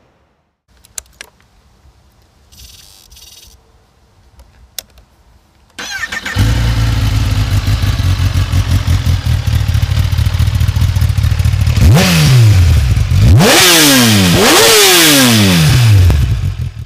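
Kawasaki Ninja ZX-10R's inline four-cylinder engine, after a few faint clicks, starting about six seconds in and settling into a steady idle. Near the end it is revved in three quick throttle blips, each climbing sharply and falling back to idle.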